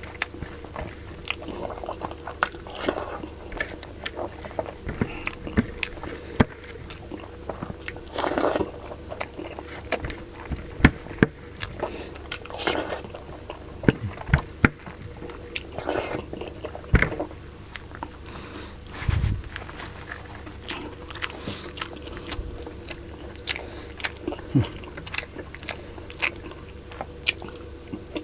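Close-miked eating of sinigang na baboy: irregular mouth smacks, bites and chewing of pork and vegetables, with some crunching, over a steady low hum.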